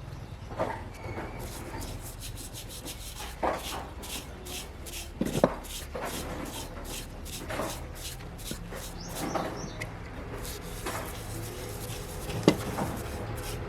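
Irregular rubbing and scraping of parts, broken by scattered light knocks and clicks, with a sharper tap about five seconds in and another near the end.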